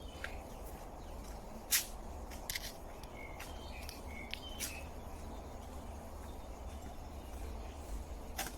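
Outdoor ambience of birds giving short, scattered chirps over a steady low rumble, with a few sharp clicks, the loudest about two seconds in.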